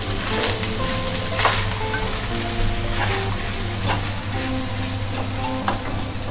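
Fried rice sizzling in a hot wok while it is stirred and turned with a spatula, with a few sharp scrapes and clicks of the spatula against the pan.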